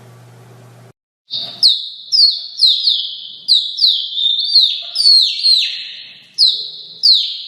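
A series of high-pitched chirping calls, each a sharp chirp falling in pitch, coming about twice a second and sometimes overlapping. They start about a second in, after a low hum cuts off.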